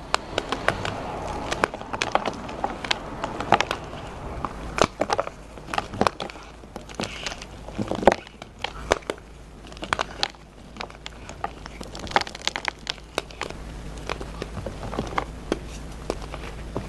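Dyed gym chalk being crushed and crumbled, a steady run of sharp, irregular crunches and crackles.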